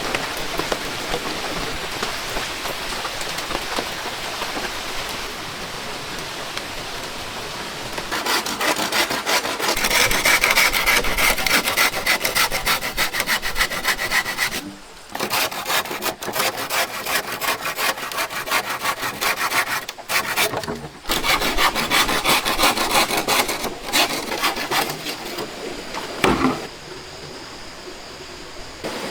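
A saw cutting through wood with quick back-and-forth strokes, in several stretches with short pauses between them, after a few seconds of steady hiss.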